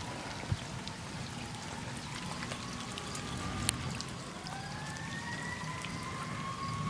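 Steady pouring rain with scattered close drops ticking, and a siren wailing faintly in the distance, its pitch slowly rising again about four seconds in.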